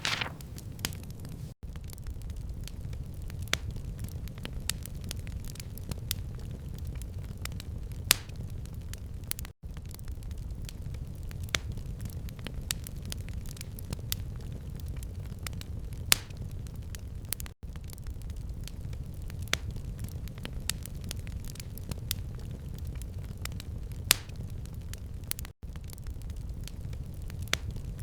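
Fire in a fireplace crackling, with sharp irregular pops and snaps over a steady low rumble. The sound drops out for an instant about every eight seconds.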